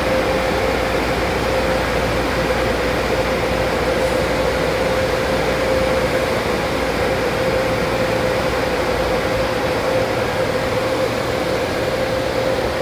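Steady mechanical hum of car wash machinery, with a constant whine running through it and a low rumble under it that fades about nine seconds in.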